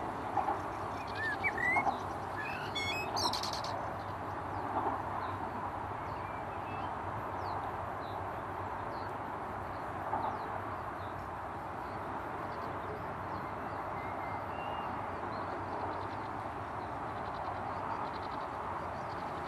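Wild birds chirping and calling in short scattered notes, busiest in the first few seconds, with a quick run of notes about three seconds in and only a few faint calls after that, over a steady background noise.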